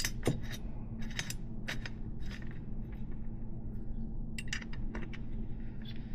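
Wrench working a nut on a BMX hub's 3/8" axle: a series of irregular sharp metallic clicks, over a steady low hum.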